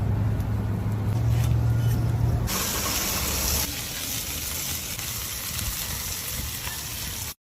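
A steady low machine hum, then a sudden loud hiss like steam or spray about two and a half seconds in, easing after about a second to a softer steady rushing.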